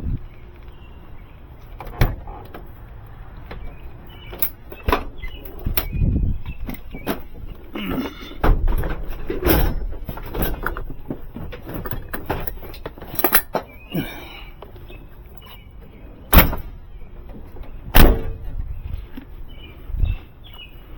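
Scattered clanks, clicks and knocks of hands and tools working around a car, with two loud bangs near the end.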